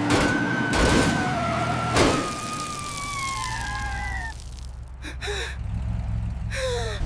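Animated action sound effects: a steady low vehicle-like rumble under sharp swooshes in the first two seconds, with long whining tones gliding slowly downward. Short falling bursts follow near the end.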